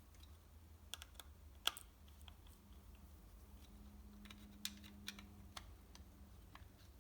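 Faint, scattered light clicks and taps of small metal parts and a hand tool being handled on a workbench, a few seconds apart, the sharpest about two seconds in. A low steady hum sits underneath.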